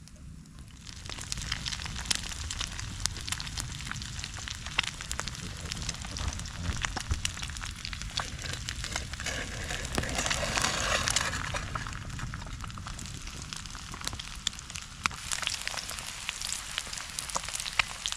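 Bread frying in a pan over a campfire: a steady sizzle with many sharp crackles and pops, starting about a second in and loudest around the middle.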